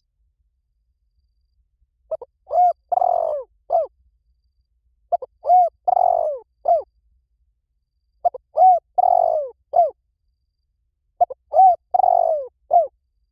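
Spotted dove song: four repeated cooing phrases, each a few short low coos with a rougher, drawn-out coo in the middle, coming about every three seconds after a silent start. It is a recorded call, played to lure spotted doves to a decoy.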